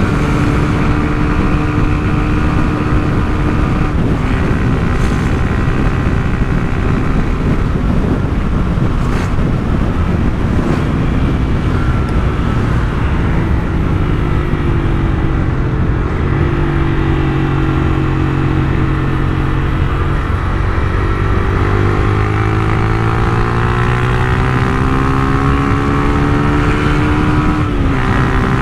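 Honda CG Titan 150's single-cylinder four-stroke engine running through a Turuna aftermarket exhaust while the bike is ridden. Its pitch holds, sags, then climbs steadily over several seconds before dropping suddenly near the end.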